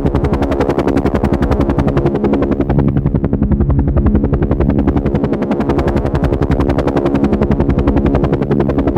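Helicopter running steadily, its rotor blades making a rapid, even chop of about a dozen beats a second over a steady engine drone.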